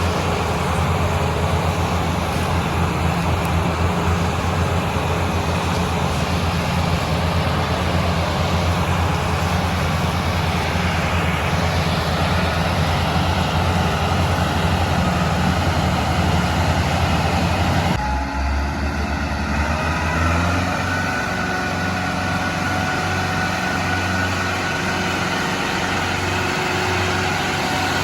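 Tractor's diesel engine running hard with a fast, dense beat. About eighteen seconds in, the sound changes abruptly to a slower, lighter engine note, close to idle.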